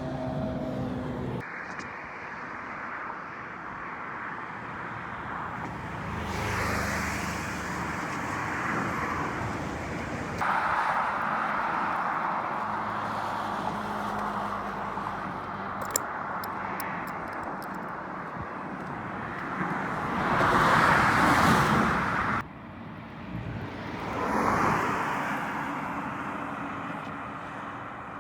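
Road traffic noise with cars going by, in several spliced takes that change abruptly. One vehicle passes close and loud about two-thirds of the way through.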